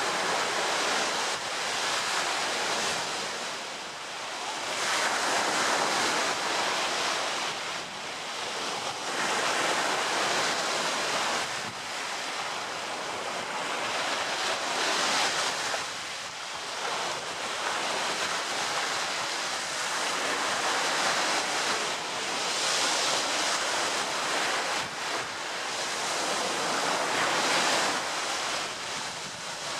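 Ocean surf: waves breaking and washing in, a steady rush that swells and ebbs every few seconds.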